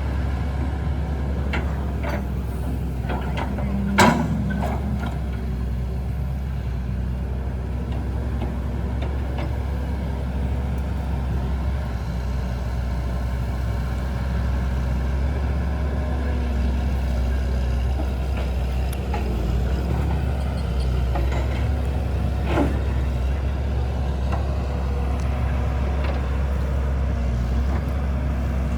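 A steady low engine rumble, with a sharp knock about four seconds in and a lighter one later.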